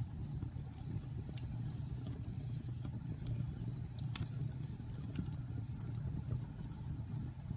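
Bonfire burning: a steady low rumble of the flames with scattered sharp crackles and pops from the burning wood, the sharpest about four seconds in.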